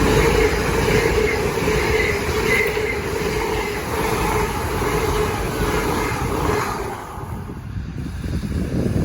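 A train running past on the rails, a loud steady rumble with a whining tone over it. The noise drops away about seven seconds in, leaving a low rumble.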